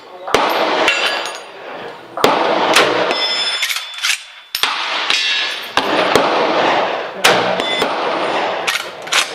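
Rifle shots from a Winchester 1895 lever-action, about six in nine seconds, each a sharp crack that rolls away in a long echo. A thin high metallic ringing follows several shots, from hits on a steel gong.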